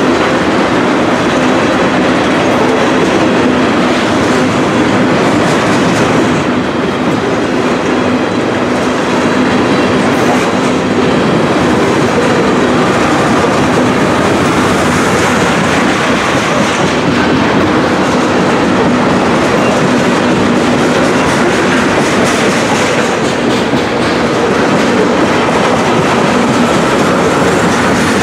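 Ethanol tank cars of a freight train rolling past at steady speed: a loud, continuous rumble with the clatter of steel wheels on the rails.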